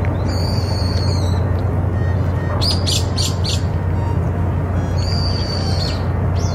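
A wild bird calling: a drawn-out high, squawky call, a quick run of four short notes, then another drawn-out call, over a steady low rumble.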